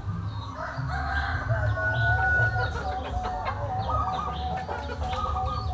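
Chickens clucking and a rooster crowing with long, wavering calls, with short high chirps of small birds over them.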